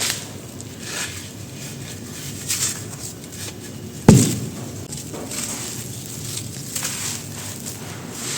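Dry black grainy sand shapes being crushed and crumbling: a run of gritty crunches and crackles, with one heavy thump about four seconds in.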